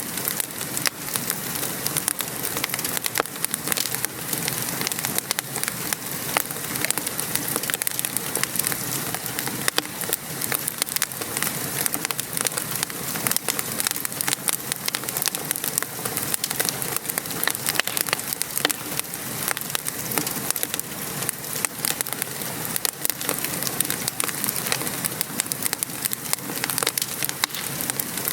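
Steady rain falling and pattering on a surface, mixed with the irregular small pops and crackles of a wood fire burning.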